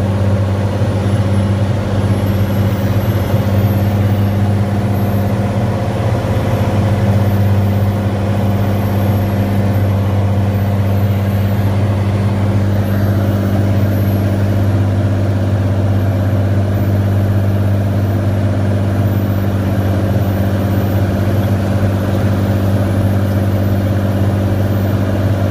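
Cirrus SR22T's turbocharged six-cylinder piston engine and propeller droning steadily in flight, with a strong low hum and a second tone an octave above it.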